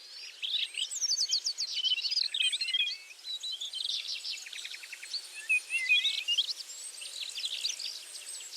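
A chorus of forest birds calling at once: many overlapping whistled chirps, sliding notes and quick trills, over a faint steady hiss of forest background.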